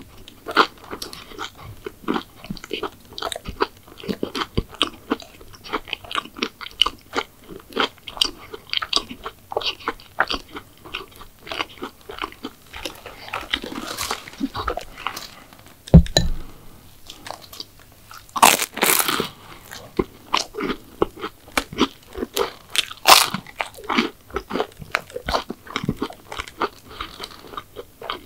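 Close-miked biting, crunching and chewing of McDonald's sweets, an irregular stream of crisp crackles and wet chews. A single low thump about sixteen seconds in is the loudest sound, followed shortly by a longer, louder burst of crunching.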